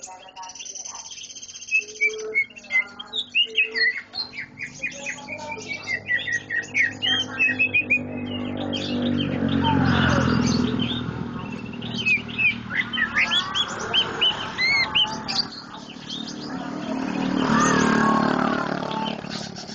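Songbirds chirping rapidly in a dense run of short, sharp calls, then more scattered chirps. A lower rumbling sound swells up and fades about halfway through and again near the end.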